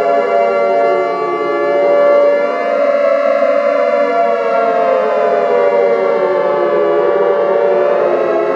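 Civil-defence air-raid siren wailing: several siren tones overlap, some held steady while others slowly fall and rise in pitch, sounding a nuclear-attack alarm.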